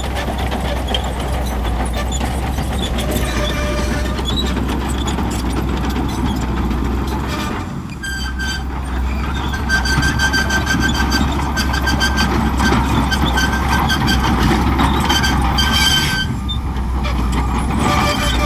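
Shantui crawler bulldozer's diesel engine running steadily with the metal rattle of its tracks, easing off briefly about eight seconds in and again near sixteen seconds.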